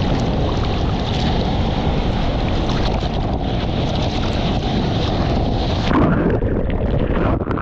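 Whitewater of a big breaking wave, a loud steady rush with wind on the microphone, as the surfer is caught inside. About six seconds in, the sound turns muffled as the camera is pushed under the water.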